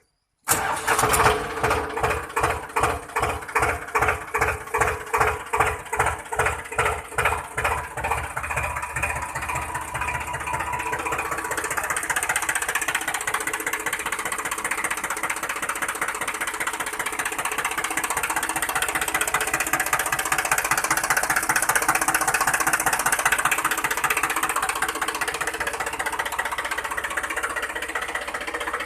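Engine-like chugging that starts abruptly, with heavy even pulses about two or three a second for the first several seconds, then settles into a faster, steady run.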